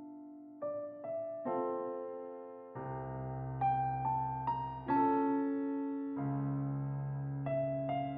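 Background piano music: soft keyboard chords and melody notes that ring and fade, with deeper bass notes joining about three seconds in and again about six seconds in.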